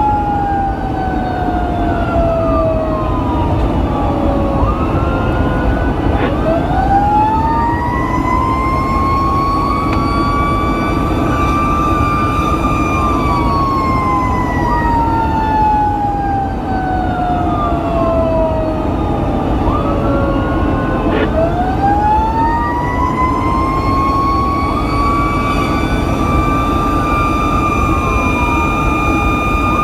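Fire engine's siren on a slow wail, falling and rising in pitch over cycles of about fifteen seconds, with a fainter, faster siren tone layered over it. Beneath it is the steady rumble of the truck's engine and road noise while it drives.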